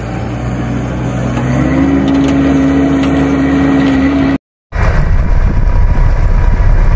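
An engine revs up about one and a half seconds in and holds a steady, higher pitch. After a brief cut, a loud, rough low rumble follows.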